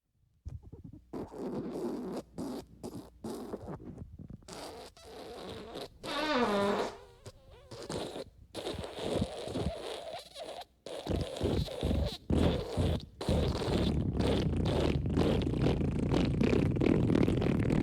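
Fart sounds in quick succession: a string of short sputtering farts, a squeaky one falling in pitch about six seconds in, then one long unbroken fart over the last few seconds.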